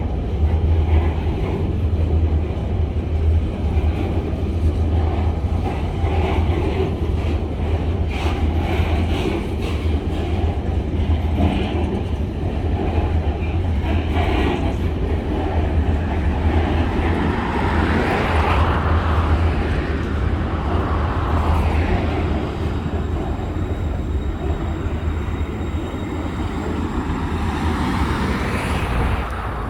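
Coal train rolling past: a steady low rumble of steel wheels on rail, with sharp clicks now and then as wheels cross the rail joints.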